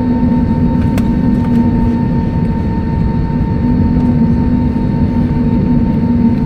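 Steady cabin noise inside an Airbus A320neo on the ground: a continuous low rumble with steady humming tones, and a faint click about a second in.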